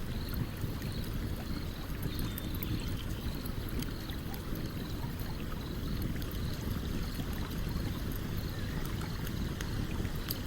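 Steady rush of a flowing stream with a campfire crackling over it in scattered sharp pops. A faint high chirp repeats about twice a second.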